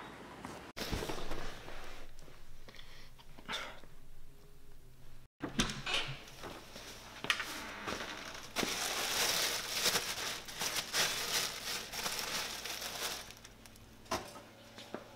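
Plastic bag crinkling and rustling as it is handled, with a few soft knocks over a faint steady hum.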